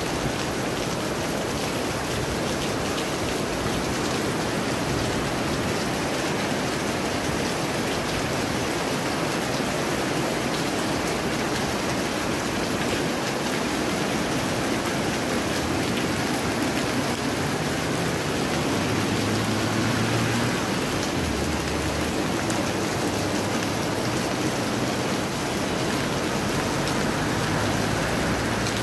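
Heavy rain pouring down onto a street and roofs, a steady, dense hiss of falling water. A low hum joins it about twenty seconds in, and again near the end.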